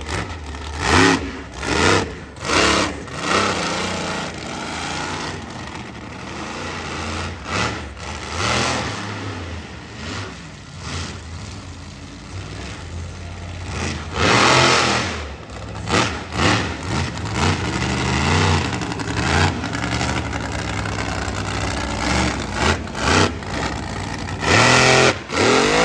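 Monster truck engine revving hard in repeated surges, its pitch climbing and falling as the throttle opens and closes. The loudest surges come about halfway through and near the end.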